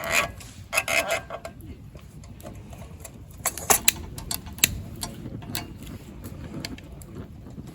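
Metal clicks and clanks from a Feuerhand hurricane lantern being handled and lit: a cluster about a second in, and a run of sharper clicks between three and a half and five seconds.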